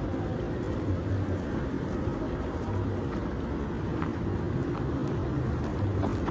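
Road traffic: motor vehicle engines running in slow, congested traffic, a steady low rumble with a few faint clicks.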